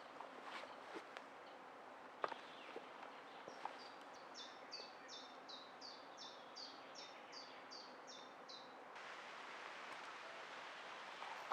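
A songbird singing a quick run of about a dozen repeated, downward-sliding high notes, over a steady outdoor hiss. A few sharp clicks come before the song, and the song stops abruptly about two-thirds of the way through.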